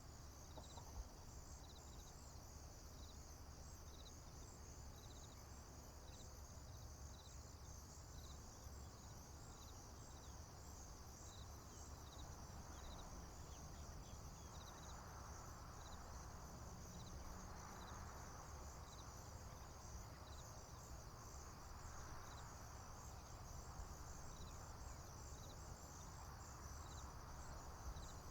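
Faint insect chorus of crickets: a continuous high pulsing trill, with a lower chirp repeating a little more than once a second. Under it runs a low steady rumble, with soft swells of hiss about halfway through.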